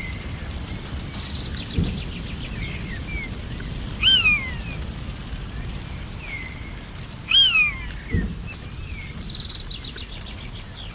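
Birds calling: a loud, falling whistled call twice, about four and seven seconds in, with fainter falling notes between them and a quick run of trilled notes near the start and again near the end. Underneath is a steady low rumble with two dull thumps.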